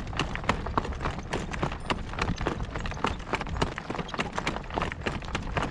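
A driving horse's hooves clip-clopping at a steady pace, several hoofbeats a second, over a low steady rumble.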